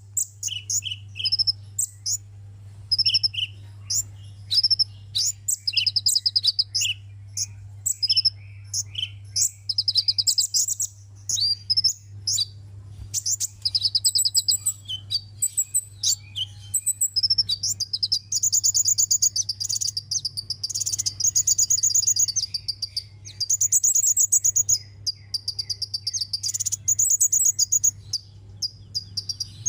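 Sunbird song: rapid, high-pitched trilling and chirping phrases in quick bursts of a second or two, over a steady low hum.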